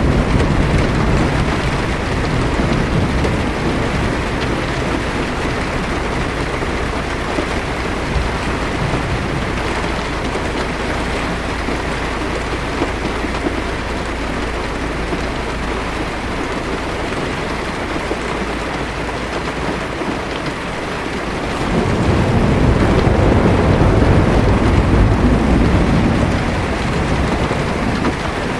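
Heavy rain falling steadily on a car's windshield and roof, heard from inside the car, with a constant low rumble underneath. About three-quarters of the way through, a low roll of thunder swells for several seconds and then fades.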